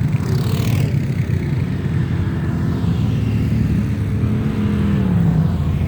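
Off-road trail motorcycle engines running, one revving up and easing off about four seconds in.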